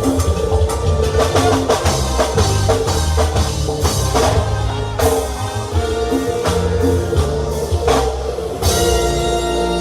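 Live band playing a cumbia number with drum kit, bass and guitar over a steady beat. Near the end the drumming drops out, leaving a held chord.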